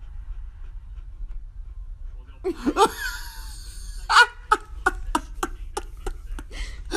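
A person laughing: a short exclamation about two and a half seconds in, then a run of quick, evenly spaced laughs, over a low rumble.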